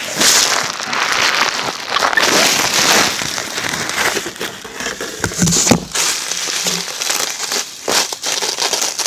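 Plastic packaging crinkling and crackling as it is handled and pulled apart, with repeated sharp snaps of plastic tape tearing loose.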